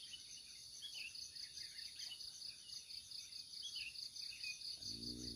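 Insects chirring steadily in a rapid pulsing trill over a thin high whine, with a bird giving short downward chirps every couple of seconds.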